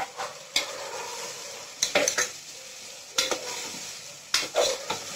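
Curd-marinated vegetables sizzling steadily in hot oil in an aluminium pressure cooker as they are stirred with a steel ladle, the ladle scraping against the pot four times.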